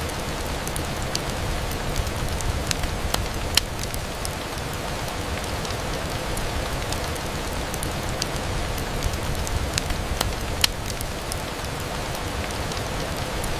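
Steady rain on a window pane, an even hiss with scattered sharp ticks of single drops or small pops, the loudest about a third of the way in and again near three quarters.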